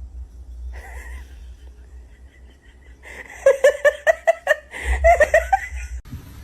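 A person laughing in a quick run of short bursts, starting about three seconds in and lasting about two and a half seconds.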